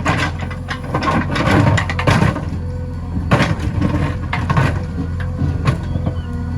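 JCB 3DX backhoe loader's diesel engine running steadily under load, with irregular bursts of clatter and crunching from the bucket working soil.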